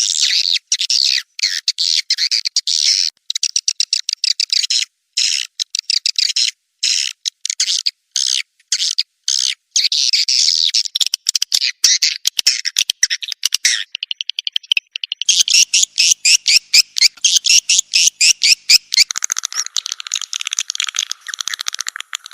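Recorded swiftlet calls played as a lure for swiftlet houses: rapid, buzzy chirps and twitters in quick series. In the first half the series are broken by short silences. From about halfway the calling runs on without gaps and grows denser.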